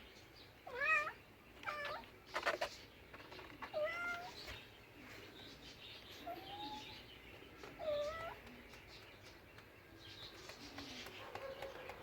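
A cat meowing in about five short calls spaced a second or two apart, the first the loudest, with a couple of sharp clicks among them.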